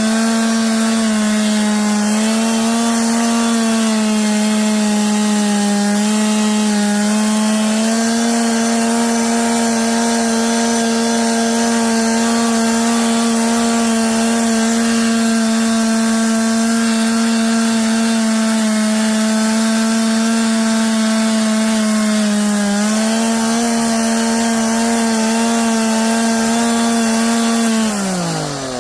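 Small two-stroke chainsaw running at high revs as it carves into cedar, its pitch sagging slightly now and then under load. Near the end the revs drop sharply and climb straight back up as the throttle is let off and opened again.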